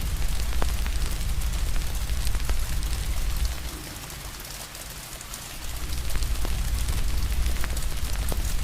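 Steady rain hiss mixed with the sharp pops and crackles of a wood fire, over a low rumble. The low rumble fades out for about two seconds around the middle and then returns.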